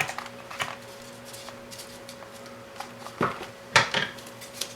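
Small hard objects being handled on a workbench: scattered clicks and light knocks, with a couple of sharper clatters about three to four seconds in, over a faint steady hum.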